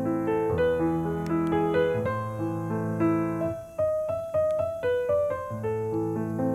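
Piano music: a melody of clear held notes over a lower accompaniment.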